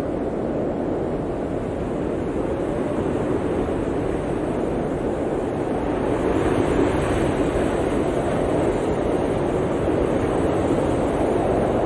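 Blizzard wind, a steady rushing noise that swells a little about halfway through.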